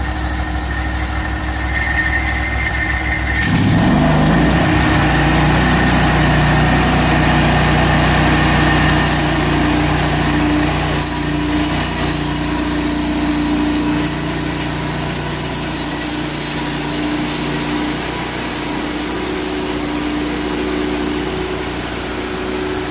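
Engine of a Hudson portable bandsaw mill running steadily. About four seconds in it gets louder and a new steady hum joins, as the band blade goes into the log, and the hum holds through most of the rest.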